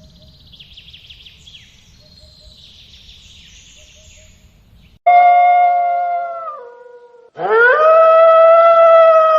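Wolf howling: after about five seconds of faint background chirping, a loud howl starts suddenly, holds, then drops in pitch and fades, and a second howl swoops up and holds steady.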